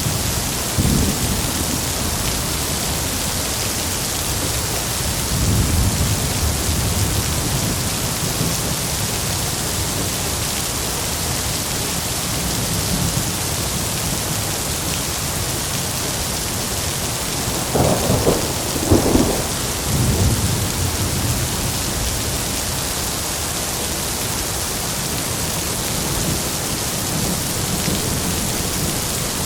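Heavy rain falling steadily with rolling thunder. Low rumbles come near the start and around six seconds in, and a louder crackling peal comes about eighteen seconds in and rumbles on to about twenty-one seconds.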